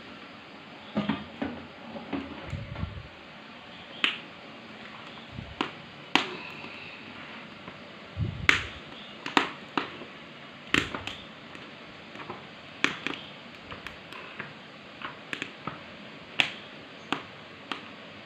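Wood fire in a hawu clay stove crackling, with sharp irregular pops about once a second over a low steady background and a few dull thumps.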